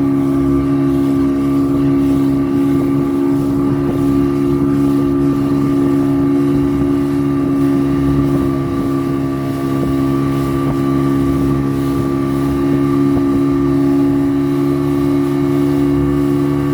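Motorboat engine running steadily at a constant speed, a droning hum with an unchanging pitch.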